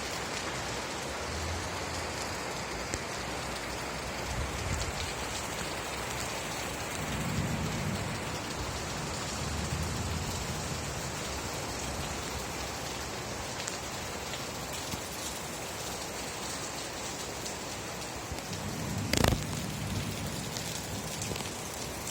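Steady rain falling, an even hiss, with soft low rumbles of thunder swelling a few times. Near the end there is one sudden sharp crack, the loudest moment, with a low rumble around it.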